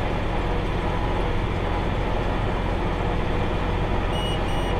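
Tractor engine running steadily with a low drone while pulling a round hay baler. Two short high beeps sound near the end.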